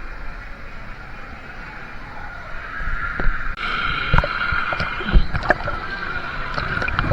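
Water sloshing and rushing, growing louder about halfway through, with a few sharp knocks.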